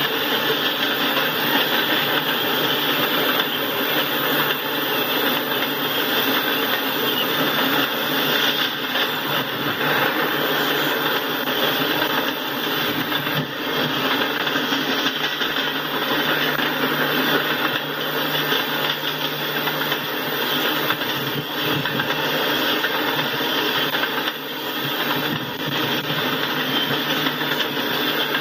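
Freight train of tank cars rolling through a grade crossing: a steady, loud clatter and rumble of steel wheels on the rails.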